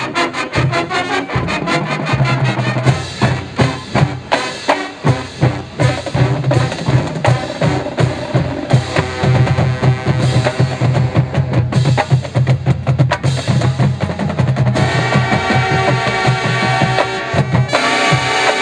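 Marching band drumline playing a fast percussion passage of rapid drum strokes, rolls and bass drums. About fifteen seconds in, the band comes back in over the drums with held chords.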